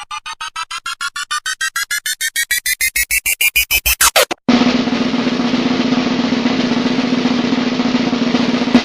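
Electronic build-up sound effect: rapid pulses, about eight a second, climbing steadily in pitch for about four seconds and ending in a quick downward sweep. It cuts straight to a steady buzzing noise with a low hum underneath, which stops abruptly near the end.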